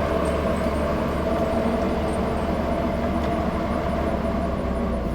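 A vehicle engine running steadily, a low even hum that does not change pitch.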